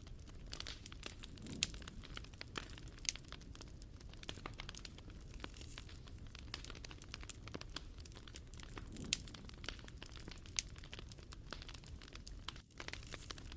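Wood fire crackling: irregular sharp pops and snaps over a low steady rumble, with a brief dropout near the end.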